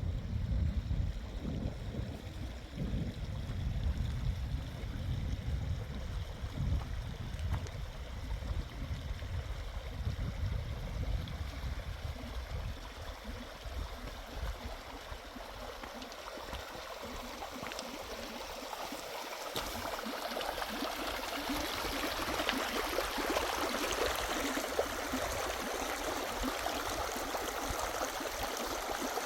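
Valley stream flowing, a steady rush of water that grows louder in the second half. Low wind buffeting on the microphone is heard in the first part and fades out about halfway through.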